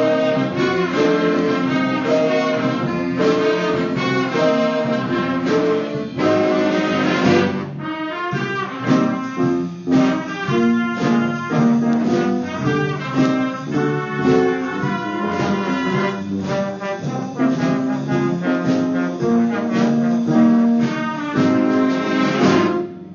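A school band playing an up-tempo instrumental holiday number led by brass, with a steady rhythm of changing notes; the music breaks off briefly near the end.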